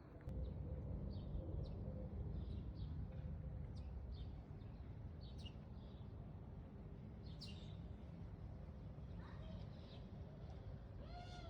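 Small birds chirping in short, scattered calls over a low rumble that fades after about four seconds. Near the end comes a louder call that rises and falls in pitch.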